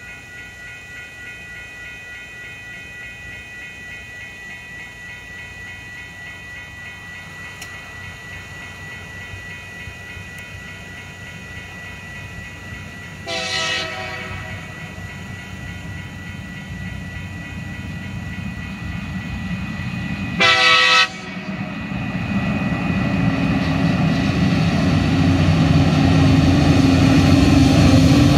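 Level-crossing bell ringing steadily while TasRail diesel locomotives led by TR08 approach. The lead locomotive's horn sounds two short blasts, about 13 and 20 seconds in. The engine and wheel rumble grow steadily louder as the train reaches the crossing.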